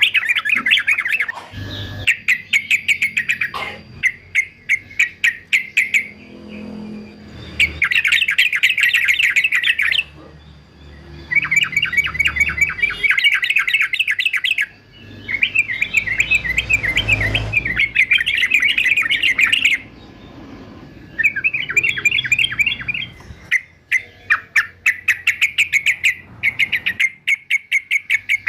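Male yellow-vented bulbul singing in repeated bursts of fast, chattering notes, each burst a few seconds long with short pauses between.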